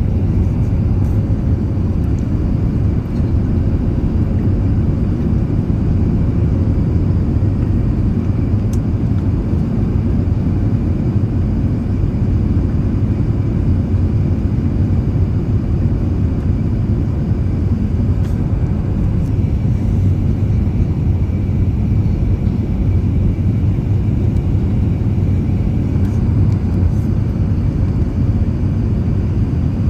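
Steady low rumble of an Airbus A380 airliner in flight during descent: engine and airflow noise that holds unchanged throughout.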